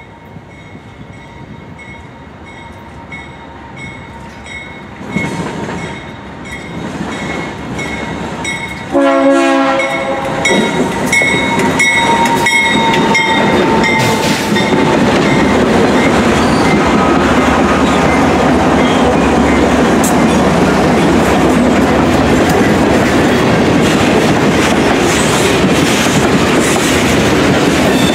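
BNSF freight train led by GE C44-9W diesel locomotives approaching with a bell clanging about twice a second, then a loud blast of the multi-chime air horn about nine seconds in. The locomotives then pass close by with a loud, steady engine and wheel noise, followed by the freight cars rolling by with clickety-clack.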